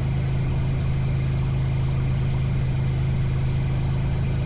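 Cessna 182's single piston engine running steadily at low taxi power: an even, unchanging drone with a strong low hum.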